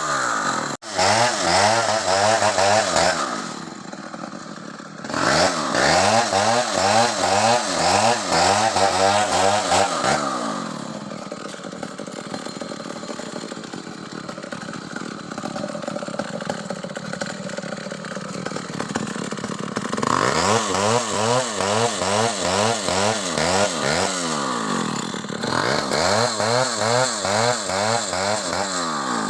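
Stihl chainsaw cutting lengthwise through a coconut palm trunk, its engine pitch wavering up and down rapidly under load. It runs quieter for a stretch in the middle before returning to full cutting.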